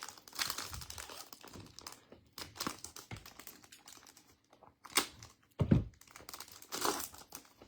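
Foil trading-card pack wrappers crinkling and being torn open, with light rustles and clicks of handling. A single louder thump comes a little past two-thirds of the way through.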